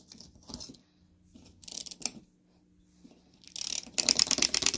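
Small hopping toy's wind-up mechanism clicking: a few scattered clicks, then a fast, dense run of clicks over the last second or so.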